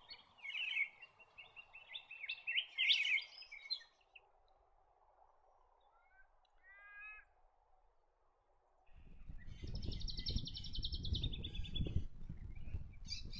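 White-winged triller singing: rapid rolling trills in bursts, with a higher, faster trill near the end over a low rumble.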